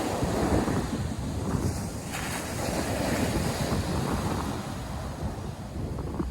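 North Sea surf breaking and washing on a sandy beach, a steady low rush with wind buffeting the microphone.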